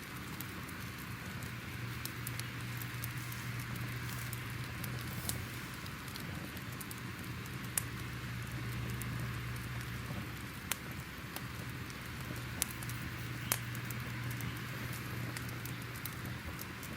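Fire crackling: a steady hiss and low rumble with scattered sharp pops, a few louder ones in the second half.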